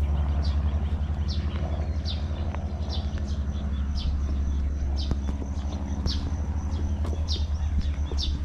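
A bird chirping a short, high, falling note about twice a second, over a steady low hum.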